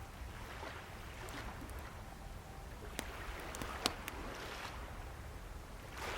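Sea waves washing in and out in repeated swells over a low rumble, with a few sharp crackles and pops from a wood fire, the loudest pop just under four seconds in.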